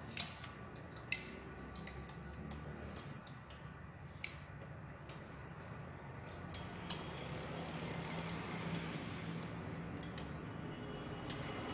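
Metal tools and engine parts clinking and clicking lightly as they are handled, a dozen or so sharp separate ticks over a low steady hum.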